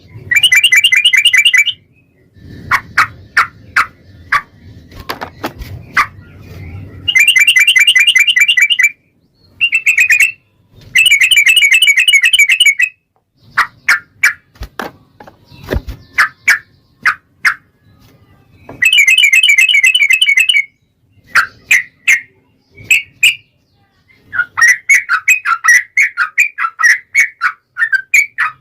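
Sooty-headed bulbul (trucukan) singing: series of short, sharp notes alternating with bursts of rapid, chattering trills about two seconds long, the long fast 'ropel' song used as a lure to get other bulbuls singing.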